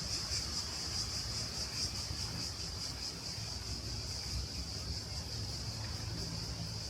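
A chorus of cicadas buzzing steadily in a high, rapidly pulsing drone, over a low rumble of wind.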